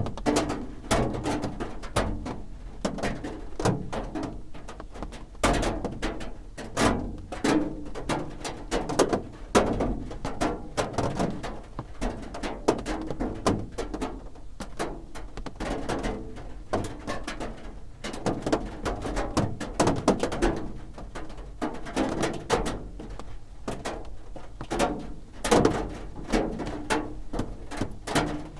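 Raindrops drumming on a roof: a dense, irregular patter of taps and knocks, some drops landing heavier than others.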